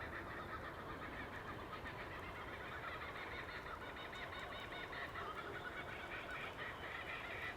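A flock of birds calling all at once, a dense overlapping chorus of short repeated calls, over a steady background hiss.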